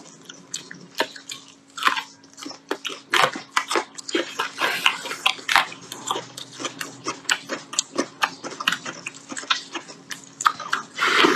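Close-up chewing of braised beef rib meat off the bone: a fast, uneven run of wet mouth clicks and smacks from the eaters chewing the tough, chewy meat.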